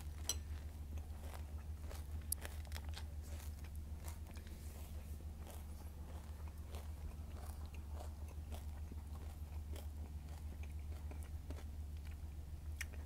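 A person chewing a mouthful of crunchy cereal in milk, with irregular soft crunches and mouth clicks, over a steady low hum from a washing machine running.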